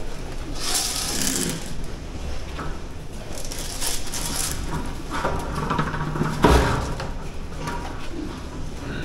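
Pigs grunting and squealing in a pen, with one loud knock about six and a half seconds in.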